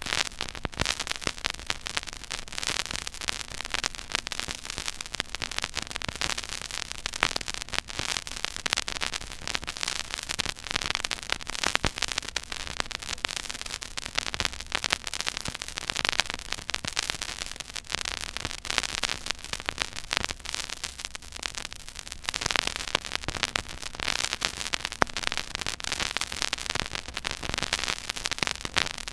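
Stylus tracking the silent groove of a 12-inch vinyl record at 33 1/3 rpm: steady surface hiss full of fine crackle and scattered clicks and pops, with a faint low hum underneath.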